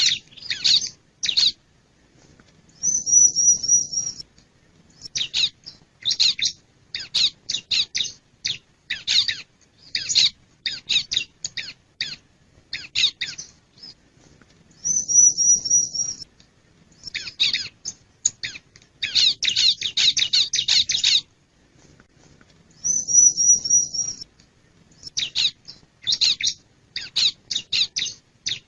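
Bar-winged prinia (ciblek) singing: loud bursts of rapid, sharp high chirps with short pauses between them, and three times a brief, thin high trill.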